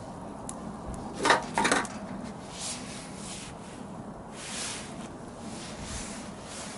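Firewood being handled at a campfire: two short wooden scrapes about a second and a half in, with a few small clicks over a low steady hiss.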